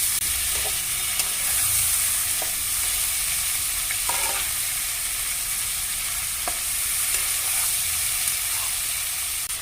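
Marinated chicken pieces frying in oil and butter over a low flame: a steady, gentle sizzle, with a few light clicks scattered through it.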